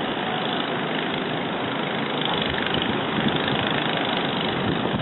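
Blizzard wind blowing steadily across the microphone, a continuous rushing noise.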